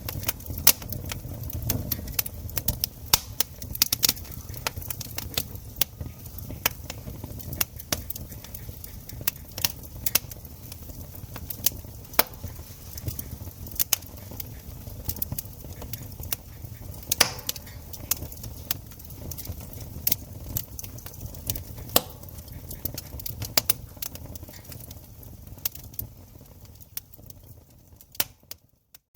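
Campfire crackling: irregular sharp pops and snaps over a low steady rumble of the flames, dropping out briefly near the end.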